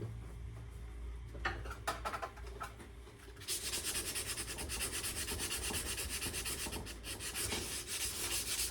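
Sandpaper rubbed back and forth on the steel of an old, rusted axe head in quick, even strokes, starting about three and a half seconds in. A few light knocks of handling come before it.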